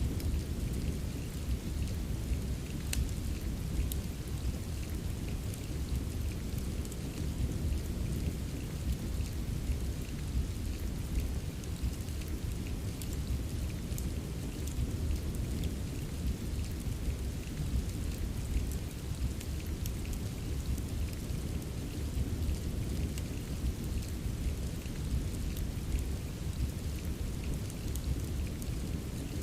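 Steady rain with a deep, constant low rumble beneath it, and scattered sharp crackles of a wood fire in a fireplace.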